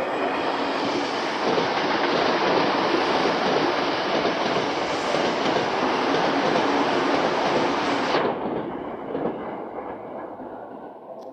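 Tokyo Metro 7000-series electric commuter train running through at speed over a level crossing: steady loud rushing and clattering of wheels on rail. About eight seconds in the sound drops suddenly to a quieter train noise that fades away.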